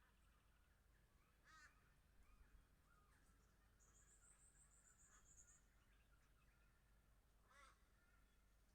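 Faint wild bird calls: two short harsh calls several seconds apart, a long high, thin trilling call between them, and scattered soft chirps.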